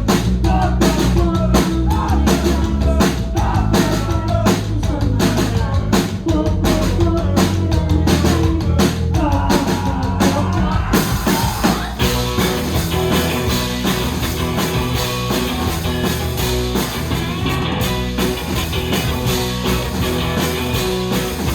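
Live rock band playing loudly: drum kit, electric guitars and bass, with some singing. About halfway through, the drum and cymbal hits drop away and the guitars carry on with sustained, ringing chords.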